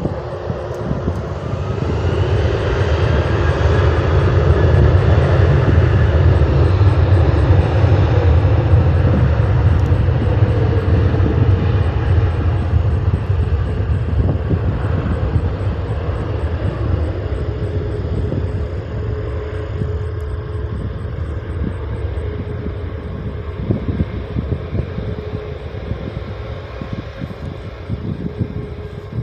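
Airliner passing the airfield, its engine noise swelling over the first few seconds, loudest around five to ten seconds in, then slowly fading away.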